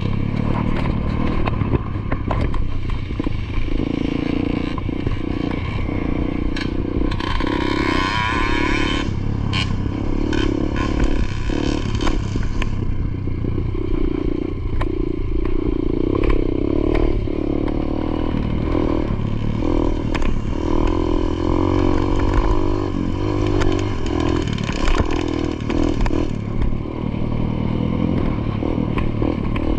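Dirt bike engine running hard on a motocross track, its pitch rising and falling again and again as the rider revs and changes gear, with rattling clatter throughout. A brighter, higher noise joins from about seven to twelve seconds in.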